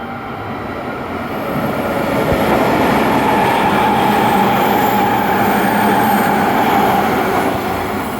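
Hanshin Railway limited express train passing through a station at speed without stopping. The rush of wheels on rail builds over the first few seconds and holds loud, with a steady high tone over it, then starts to ease near the end.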